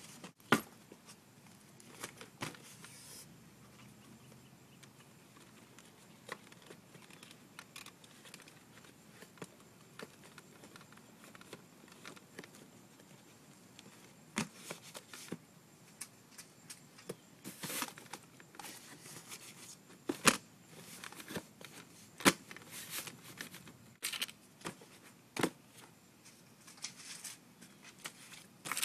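Rustling and scattered sharp knocks and clicks of belongings being handled and packed into boxes. A loud knock comes about half a second in and another about twenty seconds in, with the knocks and rustles coming more often in the second half.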